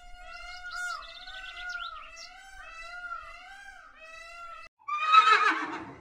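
A long, wavering, whistle-like call with high chirps over it, then after a brief break a louder whinny-like call falling in pitch, a zebra's call.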